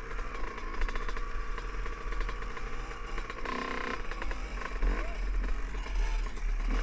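Dirt bike engine running as the bike rides along, with a steady drone and a short louder stretch about halfway through.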